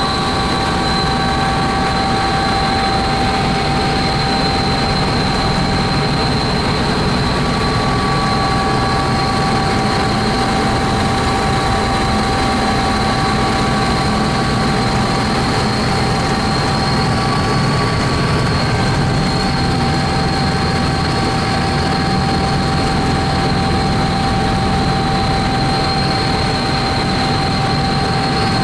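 Helicopter in flight, heard from on board: a steady drone of rotor and engine with a high whine and several steady tones above it.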